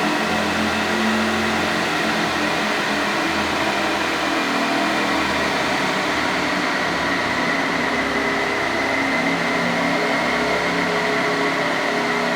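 Ducati Panigale V4 Speciale's V4 engine running through an Akrapovic titanium full race exhaust, holding a steady, even note with only small shifts in pitch.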